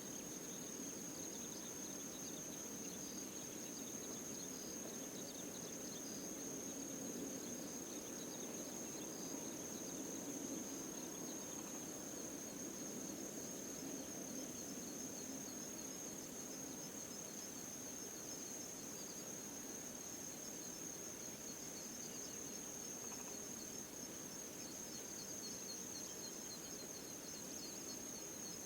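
An insect trilling steadily on one high pitch over a low, even background hum.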